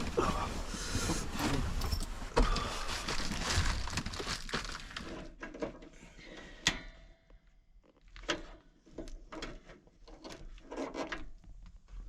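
Handling noise while a heater is being got going: about five seconds of dense rustling and shuffling, then scattered clicks and small knocks, one sharper metallic click with a brief ring.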